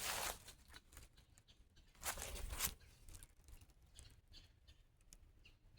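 Rustling in dry fallen leaves: a brief rustle at the start and a longer crunching rustle about two seconds in, then faint scattered ticks.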